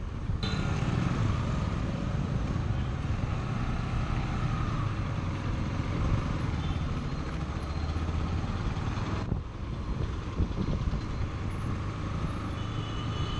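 Bajaj Pulsar NS160's 160cc single-cylinder engine running steadily while the bike is ridden, mixed with wind and road noise. The sound changes abruptly just after the start and again about nine seconds in.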